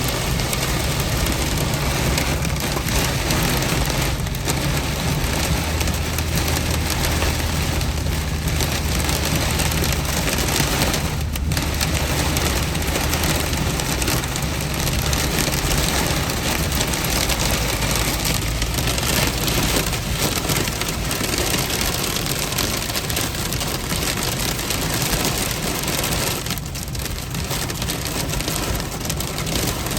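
Heavy rain pelting the car's roof and windshield, heard from inside the cabin as a dense, steady crackling patter, with a low steady rumble underneath.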